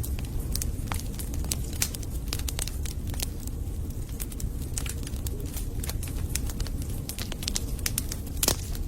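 Wood logs burning in a fireplace, crackling with many quick, irregular pops over a low steady rumble. One louder pop comes near the end.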